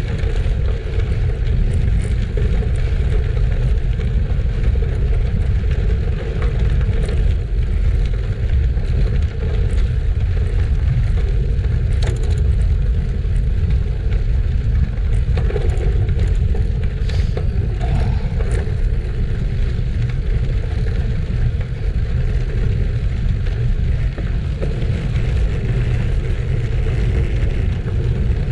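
Bicycle tyres crunching over gravel, with scattered sharp clicks and rattles, under a steady low rumble of wind on the microphone.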